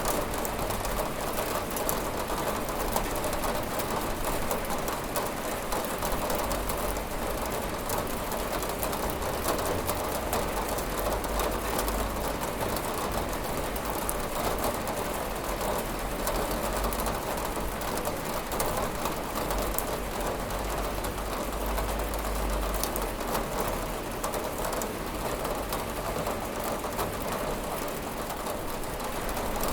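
Steady rain falling on a window: a constant even hiss full of fine drop ticks, with a deep low rumble that swells a couple of times.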